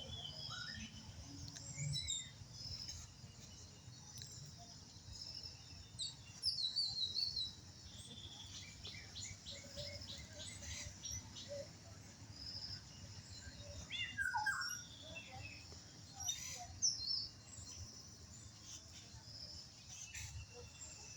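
Wild birds chirping and calling in a varied chorus of short high notes. A louder run of chirps comes about a third of the way in, and a call slides down in pitch a little past halfway.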